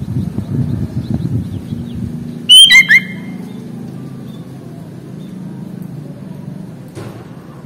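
Sooty-headed bulbul (kutilang) giving one short, loud burst of sharp calls about two and a half seconds in, over a steady low rumble, with faint chirps in the background and a single click near the end.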